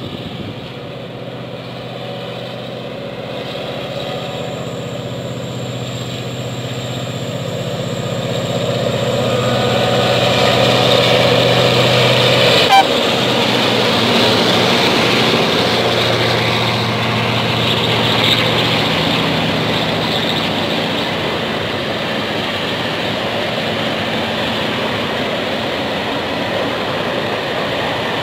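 Diesel locomotive and its train approaching and passing on the rails: a steady engine hum builds to its loudest about twelve seconds in, a sharp click comes just after, then a steady rumble of the train on the track.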